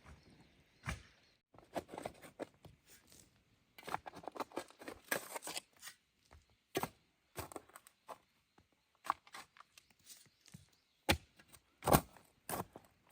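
Hand construction work: irregular scraping and clattering with sharp knocks, typical of tools working cement and stone. The loudest knocks come near the end.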